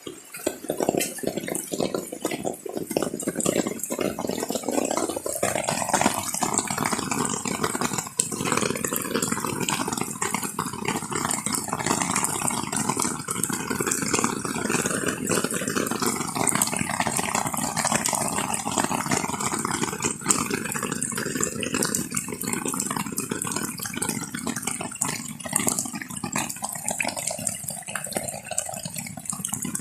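Heavy rain falling steadily, a dense patter of drops together with running, splashing water. It starts abruptly.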